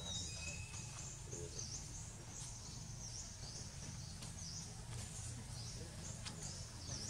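Forest ambience: a bird repeating a short high call about once or twice a second, with a couple of brief high whistles near the start, over a steady low background rumble.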